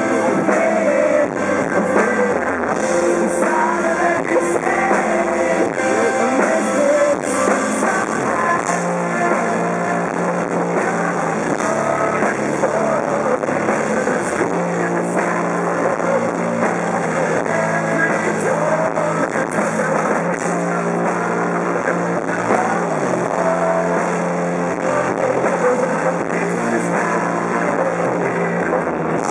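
Live rock band playing, with distorted guitars, bass, drums and singing, as heard from the audience.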